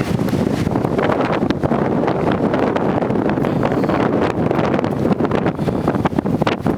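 Strong gusting wind buffeting the microphone, a continuous loud rumble with many short sharp flaps and cracks, as of tent fabric whipping in the gusts.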